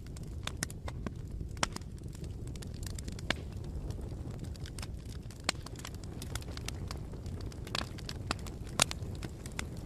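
Campfire burning with a steady low rumble of flames and irregular sharp crackles and pops from the burning wood, a few louder snaps among them.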